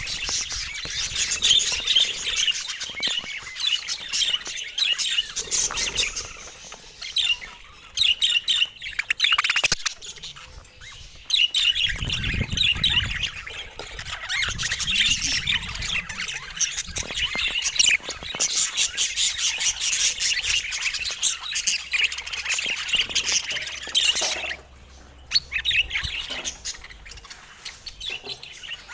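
Budgerigars chattering and warbling: a steady stream of rapid chirps, squawks and twittering calls, with a brief low rumble about twelve seconds in.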